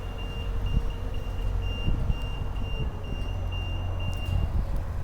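A vehicle engine idling with a steady low rumble, while a quick high-pitched electronic beep repeats about three times a second and stops shortly before the end.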